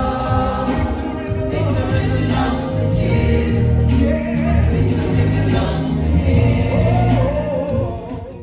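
Gospel choir singing over a bass-heavy accompaniment, several voices holding and gliding between long notes.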